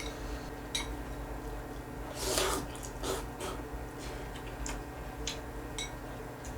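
Close-up eating sounds: a loud slurp about two seconds in and a shorter one just after, with several light ringing clinks of a utensil against a bowl.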